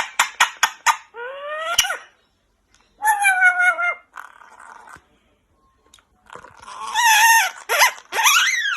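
Pet parrot vocalizing: a quick run of clicks, about five a second, then a rising whistle-like call and several drawn-out calls, the last sweeping upward near the end.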